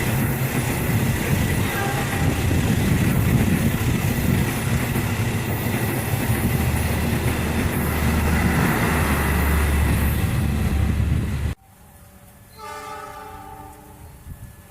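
Pair of diesel locomotives passing close at full power, a loud heavy engine rumble mixed with the clatter of wheels on rail. About eleven and a half seconds in it cuts off abruptly, leaving a much quieter stretch with a brief pitched horn-like tone.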